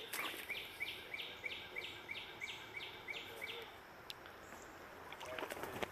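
A rhythmic animal call: a steady series of short, high chirps, about five a second, that stops a bit over halfway through. A few sharp clacks come near the end.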